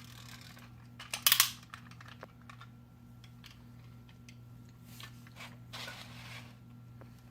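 Light plastic clicking and rattling as a wind-up toy car is wound and handled against a LEGO model engine, with one loud clatter about a second in.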